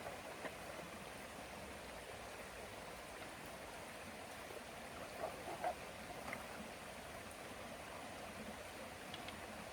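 A river flowing steadily, a soft even rush of water, with a few short knocks or clicks about five to six seconds in.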